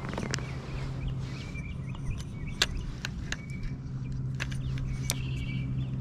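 A steady low motor drone with birds chirping in short repeated notes, and several sharp clicks scattered through it.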